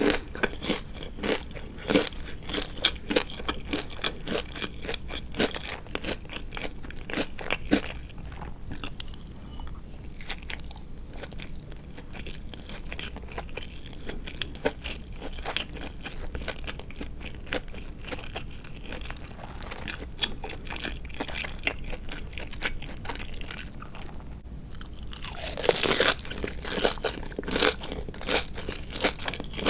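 Chewing and crunching of crispy deep-fried marinated chicken (tatsuta-age). It crunches steadily for the first several seconds and goes softer through the middle. Near the end comes a loud crunchy bite, followed by more crunching.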